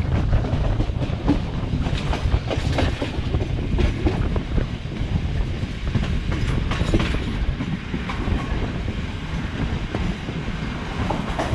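Passenger train running along the track, its wheels clattering over the rail joints: a steady low rumble with frequent sharp clicks.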